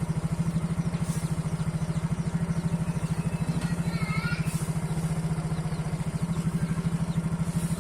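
Truck engine idling steadily with an even, rapid pulse.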